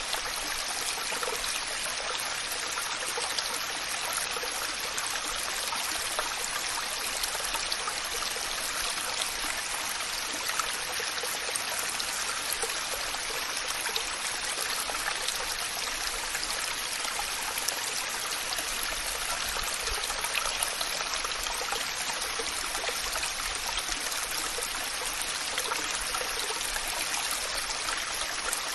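Waterfall: water falling and splashing in a steady, unbroken rush, with fine spattering throughout.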